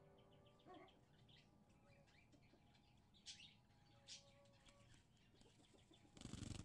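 Near silence with a few faint, short bird chirps spaced a second or so apart, and a brief louder rustle near the end.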